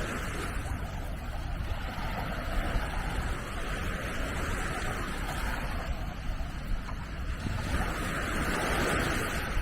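Small Mediterranean waves washing onto the beach, each swell rising and falling about every four seconds, over a low rumble of wind on the microphone.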